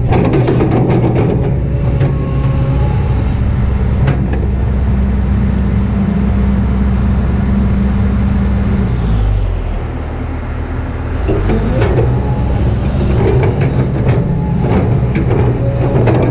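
Kobelco SK200-8 hydraulic excavator's diesel engine running steadily under load, with scattered knocks from the machine at work. About nine seconds in, the engine note falls and eases off for a couple of seconds, then picks up again.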